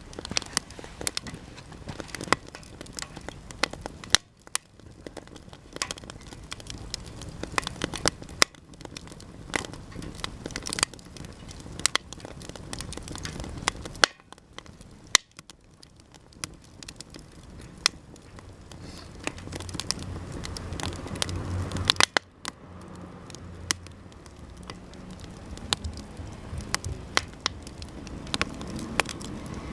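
Japanese cedar offcuts burning in a campfire, crackling with many sharp, irregular pops over a low continuous rush.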